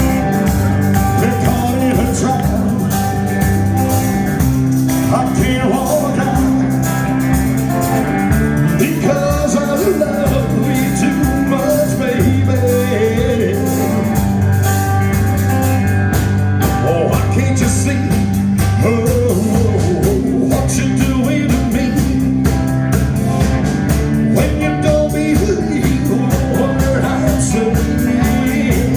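Band playing a rock and roll number with a steady drum beat, sustained bass notes and a wandering melody line, without clear lyrics.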